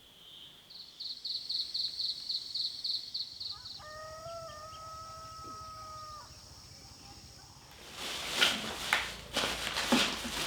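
A rooster crows once, a long held call starting about four seconds in, after a rapid pulsing insect trill. Near the end come several loud rustling, clattering noises.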